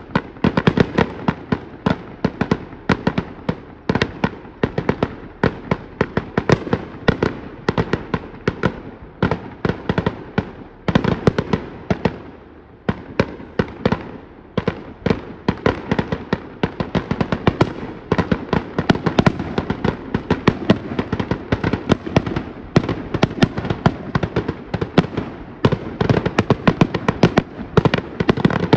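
Fireworks display: a rapid, continuous barrage of aerial shells bursting, many sharp bangs a second, thinning briefly about twelve seconds in before building up again.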